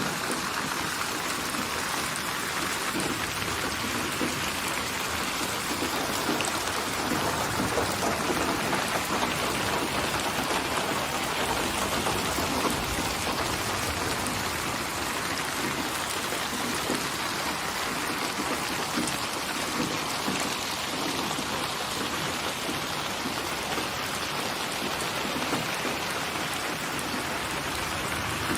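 Steady rain falling, with many fine drops pattering on a surface and no change in intensity.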